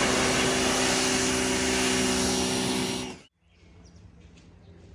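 Electric pressure washer motor running steadily with the hiss of its spray, then stopping abruptly about three seconds in.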